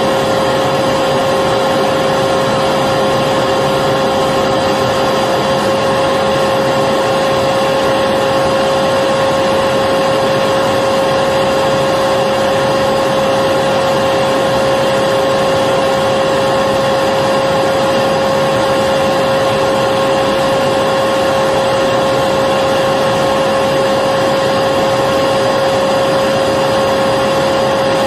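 Electric vacuum cleaner running continuously at a steady speed: an even rushing noise with a constant high hum, played as white noise for a baby's sleep.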